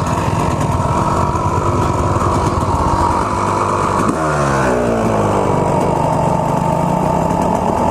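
Two-stroke dirt bike engine running at steady high revs while being ridden. About four seconds in, the revs drop sharply as the throttle closes, then climb gradually again.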